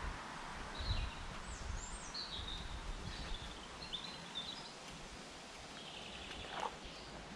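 Small birds chirping and warbling in short phrases over faint, steady background noise.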